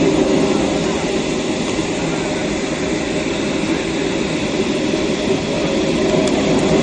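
Airliner jet engines and airflow making a steady, unbroken roar.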